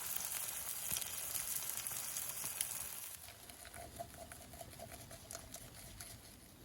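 Sizzling and crackling over a campfire. It drops suddenly about three seconds in to quieter, scattered crackles with a faint steady whine.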